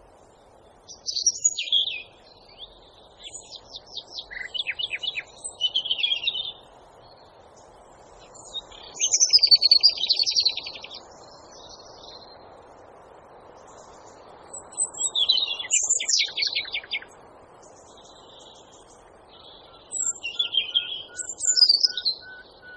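A songbird singing in five separate phrases, about one every five seconds, each a quick mix of high sweeping notes and rapid trills, over a steady faint background hiss.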